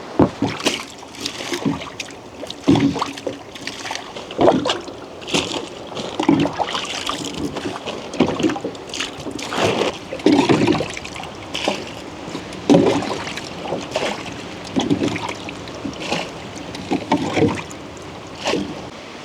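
A rowboat being rowed: oar strokes in the water in a steady rhythm, roughly one every second or so, each with a splash and knock, over wind and lapping water.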